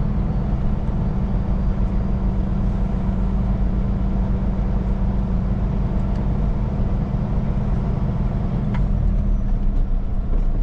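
Semi truck's diesel engine running with a steady, even drone.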